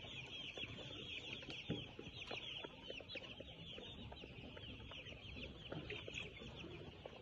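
A large flock of young chickens cheeping without a break: many short, high, overlapping peeps.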